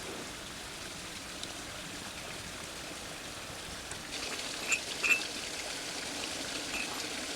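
Small creek flowing steadily, a constant watery hiss. About four seconds in, a brighter hiss joins it, with a few short high chirps.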